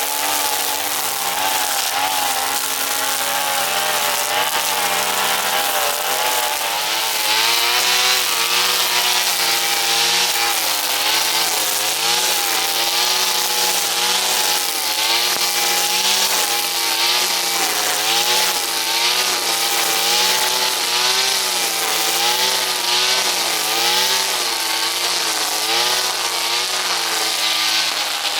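Petrol brush cutter engine running hard, its pitch wavering up and down as throttle and load change. From about seven seconds in, a pulsing hiss of the cutting head slashing through grass runs along with it.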